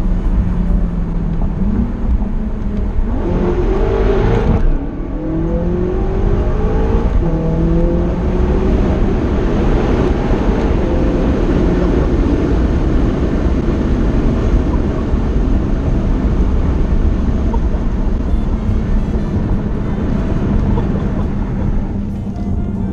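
BMW F10 M5's twin-turbo V8, breathing through a full Akrapovic exhaust, accelerating hard: the engine note rises, breaks off at a gear change about four and a half seconds in, and rises again, then the car runs on at speed under a steady heavy road roar.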